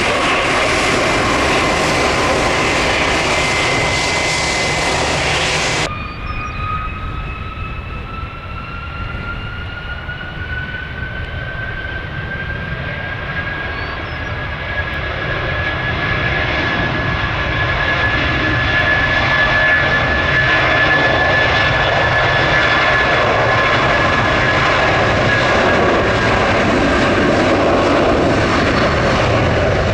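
Jet airliner engines with a steady high whine over wind rumble on the microphone. The sound changes abruptly about six seconds in; after that the whine slowly rises in pitch and the engines grow louder as the aircraft comes closer.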